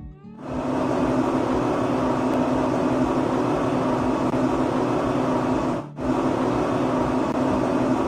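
A small motor running steadily with a constant hum, breaking off briefly about six seconds in.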